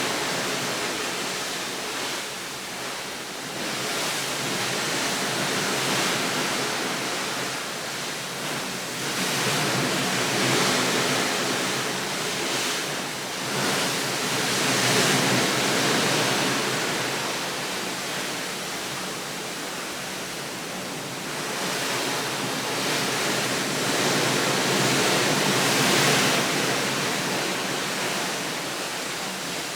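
A steady outdoor rushing noise that swells and eases every few seconds, loudest around the middle and again near the end.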